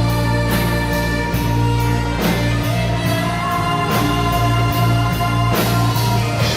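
Live rock band playing, with a drum kit keeping a steady beat over held bass notes and guitar, and a voice singing.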